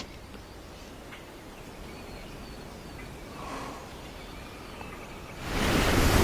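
Faint outdoor ambience with a few distant birds chirping. About five and a half seconds in, a loud rushing noise swells in and holds.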